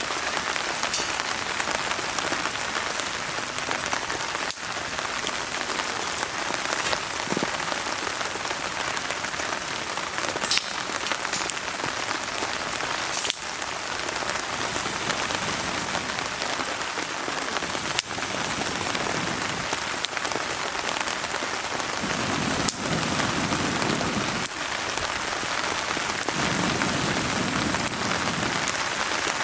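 Steady rain falling, with scattered sharp crackles and pops from a wood fire burning in a fire pit.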